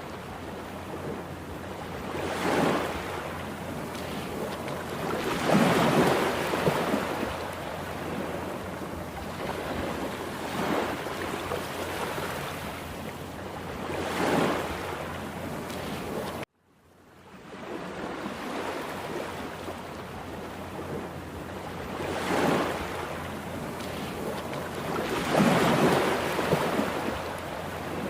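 Heavy surf of a rough sea: waves break and wash in every few seconds over a steady rush of water. About halfway through, the sound cuts out abruptly and fades back in.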